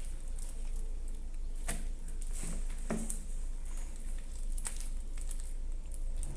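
A large mass of sticky slime being kneaded and mixed by hand, with irregular wet clicks, pops and squelches.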